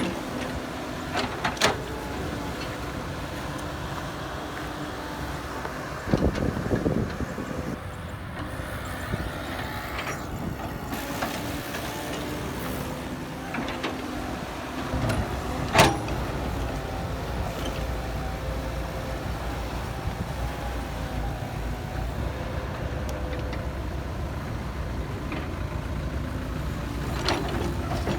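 Heavy diesel earthmoving machinery, dump trucks or an excavator, running steadily with a low rumble. A few sharp knocks cut in, the loudest about halfway through.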